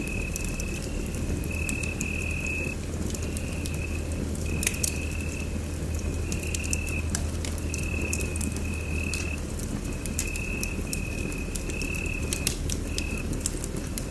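Wood fire crackling in a fireplace, with frequent sharp pops over a low steady rumble. A thin high note also repeats in short spells about once a second.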